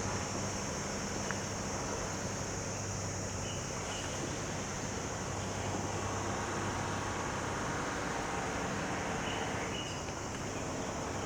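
Harbour-side outdoor ambience: a steady hiss with a low engine hum that fades about halfway through, and two faint short chirps.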